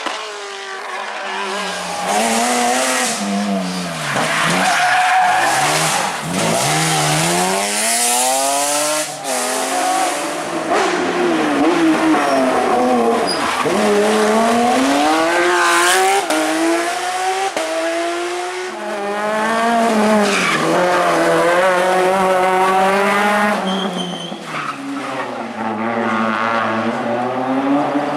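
Rally cars at full throttle, engines revving hard, the pitch climbing through each gear and dropping on lifts and shifts, over and over.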